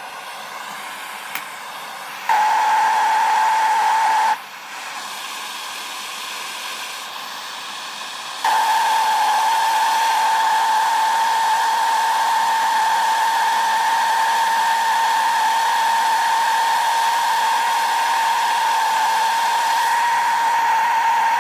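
Electric grinder running with a steady whine while shaping a brass trigger guard; the whine drops out for a few seconds and then returns, holding steady to the end.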